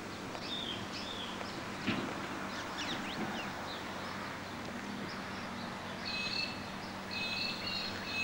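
Birds calling outdoors: short chirps and quick rising whistles, then a repeated high two-note call near the end, over a faint steady low hum.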